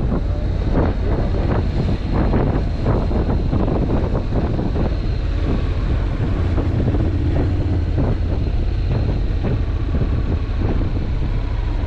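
Wind buffeting the microphone on a moving motorcycle, with the low, steady drone of the Honda NC750X's parallel-twin engine underneath.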